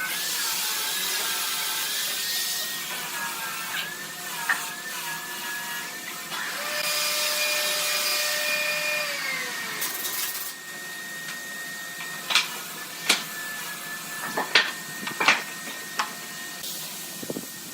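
An electric power tool's motor running with a whine over a hiss, its pitch wavering, then winding down about ten seconds in. Several sharp knocks follow.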